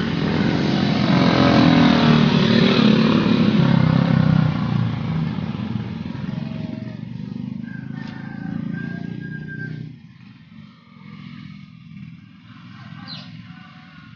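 A motor vehicle engine running close by, loudest in the first few seconds, then fading and dropping away about ten seconds in.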